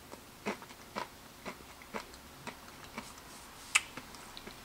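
A small pressed cat-shaped candy being crunched while it is chewed, with faint sharp cracks about twice a second and a louder crack near the end.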